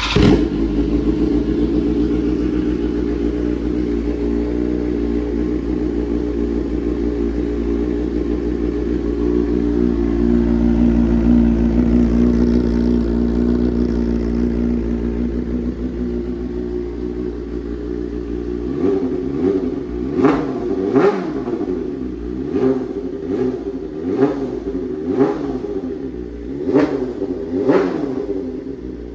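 BMW M1000R inline-four engine breathing through an Austin Racing shorty exhaust can. It starts up and idles steadily, then from about two-thirds of the way in it is blipped about seven times, each rev rising and falling quickly back to idle.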